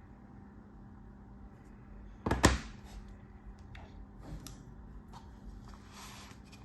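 Knife cutting with a sharp double crack about two seconds in, then lighter clicks and a short scraping sound near the end.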